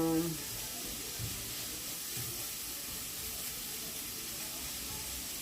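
Peppers and onions sizzling steadily in butter in a skillet.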